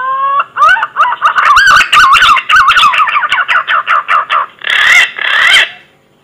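Green pigeon (punai) calling loudly: a rising whistle, then a rapid run of wavering whistled notes about five a second, ending in two longer wavering notes.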